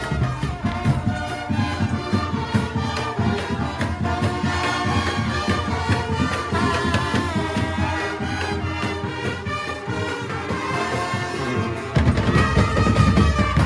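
Cape Minstrel street band playing an upbeat tune, with brass over driving drums. Near the end the low drums come in louder and heavier.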